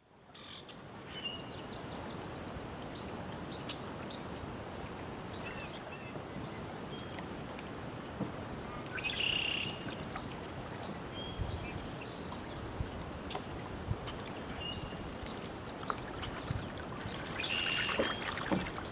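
Small songbirds chirping and giving fast, high trills, many short calls over a steady outdoor background hiss, with a few soft knocks near the end.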